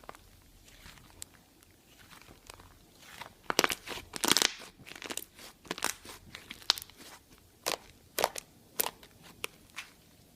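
Slime mixed with clay being squeezed and pressed by hand, giving irregular crackling and popping clicks that are loudest and densest about four seconds in.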